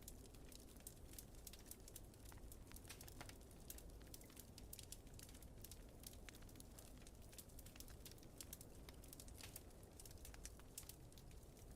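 Faint crackling wood fire: many small, irregular pops and snaps over a low, steady rumble.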